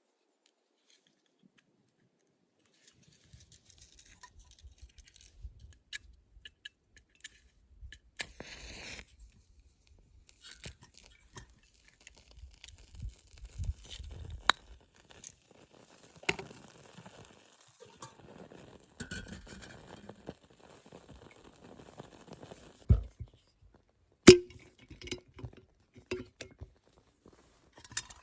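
Clinks, taps and knocks of metal and glass cookware being handled during cowboy-coffee making. Near the end come two loud sharp knocks, the second ringing briefly like struck metal.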